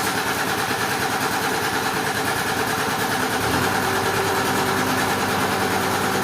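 Machinery engine running steadily. About three and a half seconds in, a deeper steady tone joins and the sound gets a little louder.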